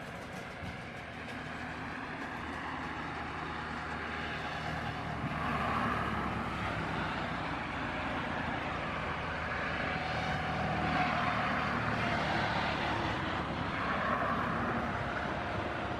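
Boeing 737-800's CFM56 jet engines running steadily at taxi power, a continuous whooshing rumble that swells a little twice.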